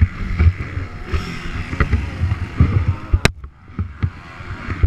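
Motocross motorcycle engines running unevenly, with a sharp click about three seconds in.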